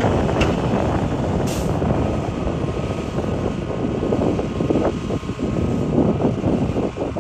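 Hitachi excavator digging rock: its diesel engine running under load while rock scrapes and knocks against the bucket. A short hiss comes about one and a half seconds in.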